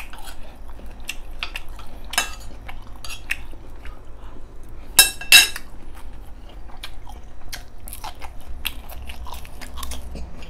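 A person chewing and biting braised pork spare ribs close to the microphone, with wet mouth clicks and smacks scattered throughout. Two louder sharp clicks come close together about five seconds in.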